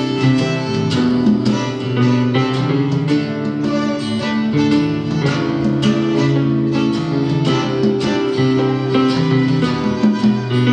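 Live band playing an instrumental break between sung verses, with a plucked guitar line to the fore.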